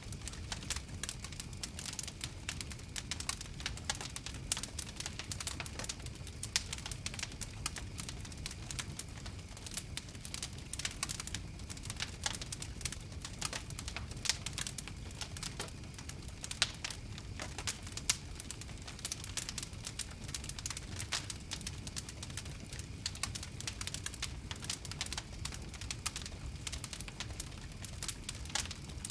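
Campfire crackling: dense, irregular small pops and snaps over a steady low rumble.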